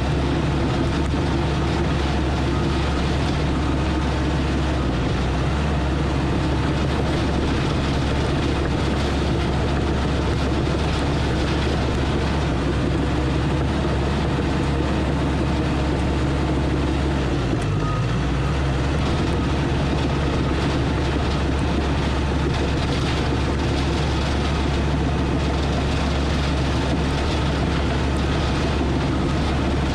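Engine of a heavy earthmoving machine running steadily under load, with a brief dip in engine speed about 18 seconds in.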